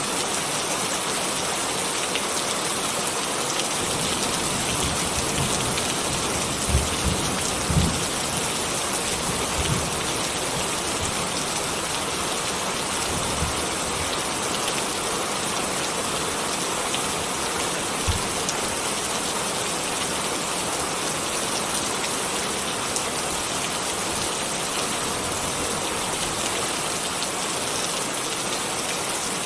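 Steady rain falling, an even hiss, with a few soft low thumps about seven to eight seconds in and a couple more later.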